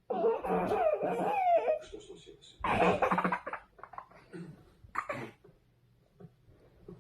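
A young child's voice laughing and coughing in bursts: a long high-pitched stretch at the start, another burst about three seconds in and a short one near five seconds, then quiet.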